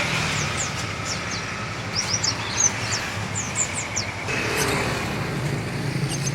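Many small caged songbirds chirping, scattered short high chirps overlapping one another, over a steady low hum of traffic.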